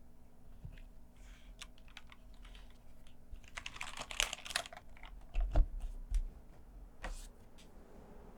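Mechanical keyboard with broken-in Cherry MX Brown tactile switches and GMK keycaps being typed on. Scattered keystrokes come first, then a quicker run about four seconds in and a few heavier strikes a little later. The typing stops about seven seconds in.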